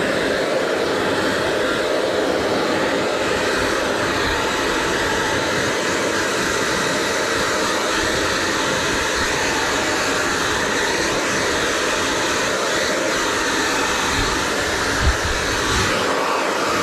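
Hair dryer blowing steadily, a constant whooshing airflow, with a brief low bump near the end.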